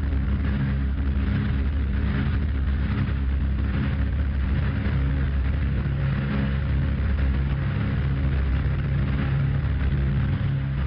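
Piston engines of a propeller aircraft running at a steady pitch, a continuous low rumble.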